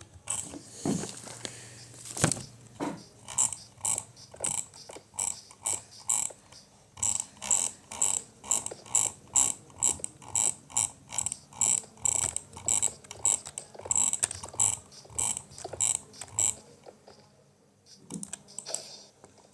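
Mechanical clicking in an even rhythm, a little over two clicks a second, after a couple of single knocks; it stops about three seconds before the end.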